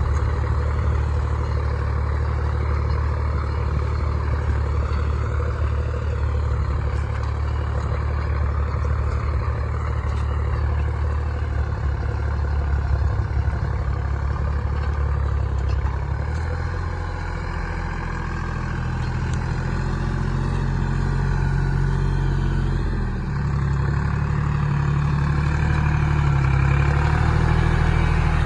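Deutz-Fahr Agrolux 50 tractor's diesel engine running steadily. A little past halfway its note dips and shifts, then changes again a few seconds later.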